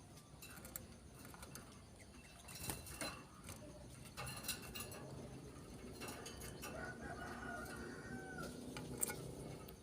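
Faint bird calls: scattered short chirps and clicks, then a longer drawn-out call in the second half.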